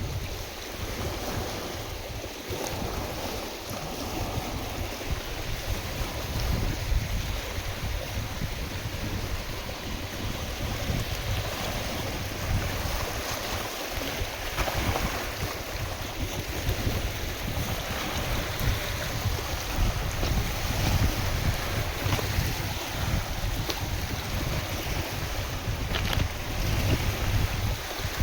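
Wind-driven lake waves washing and splashing steadily, with gusty wind buffeting the microphone as a low rumble.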